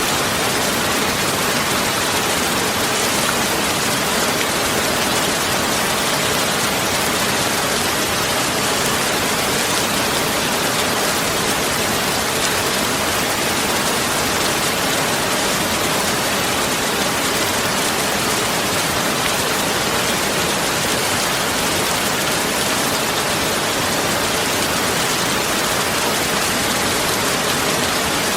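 Steady rain, an even, unchanging hiss.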